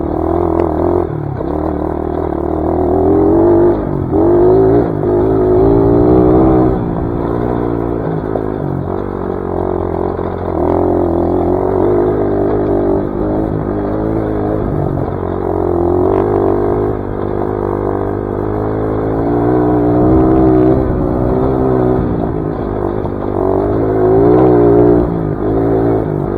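Dirt bike engine running under load on a trail ride, its pitch rising and falling again and again as the throttle opens and closes, with some clatter.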